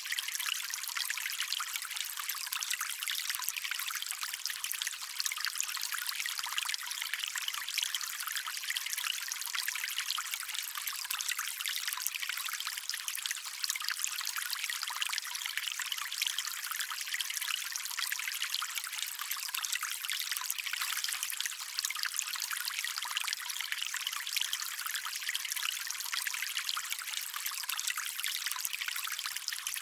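Stream water trickling steadily over stones, a continuous fine splashing and babbling with its sound mostly high and little low rumble.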